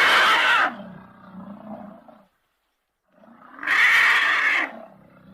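Elephant giving loud, harsh calls. One call ends less than a second in and is followed by a quieter, lower call. After a short silence, a second loud call lasts about a second.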